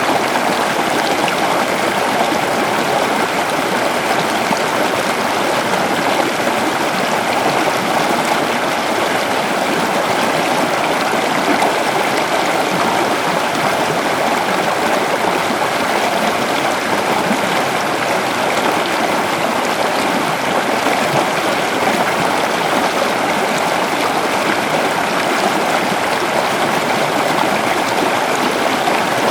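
Shallow river flowing over stones, a steady, even rush of water.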